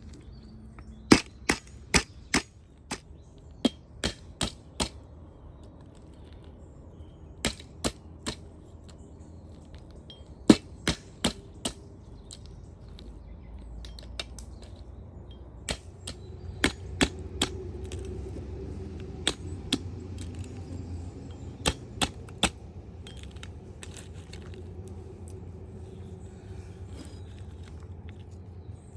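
Sharp knocks in quick runs of three to five, every few seconds, over a low steady rumble that grows a little louder about halfway through.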